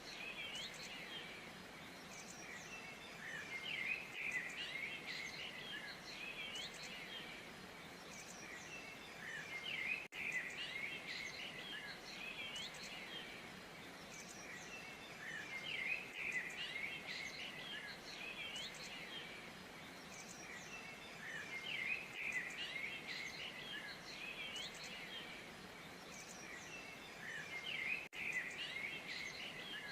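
A chorus of small songbirds chirping and twittering over a faint outdoor hiss, swelling into busier flurries of calls about every six seconds.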